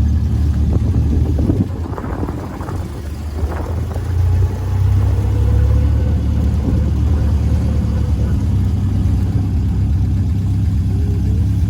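Car engine running with a steady low drone while driving. It eases off about two seconds in and comes back louder about four and a half seconds in.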